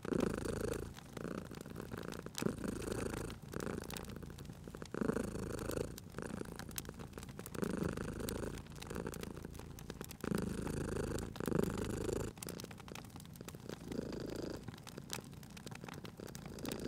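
Domestic cat purring, swelling and fading with each breath about once every second and a quarter, over a wood fire crackling with scattered sharp pops.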